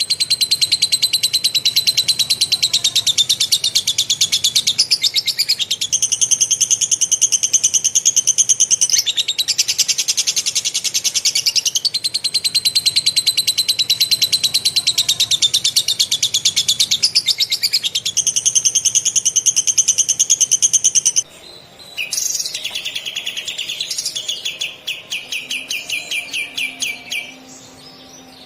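A kapas tembak (katem) singing a long, fast rolling chatter copied from a lovebird's ngekek trill: dense runs of rapid notes that step up and down in pitch every few seconds. About 21 seconds in, the trill breaks off, and quieter, slower pulsed notes follow.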